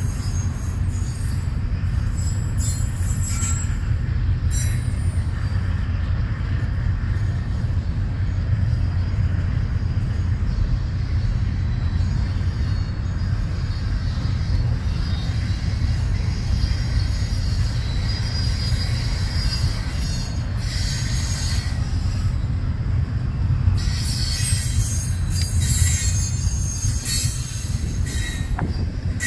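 Double-stack intermodal freight train's container well cars rolling past: a steady low rumble with intermittent high-pitched wheel squeal, strongest near the end.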